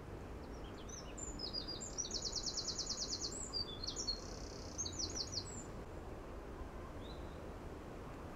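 A small songbird singing: a run of high chirps with a fast trill of about ten notes a second in the middle, lasting about five seconds, over a low steady background noise.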